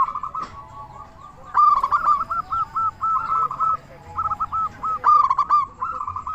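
Zebra dove (perkutut) cooing in rapid runs of short arched notes, several phrases with brief pauses between them.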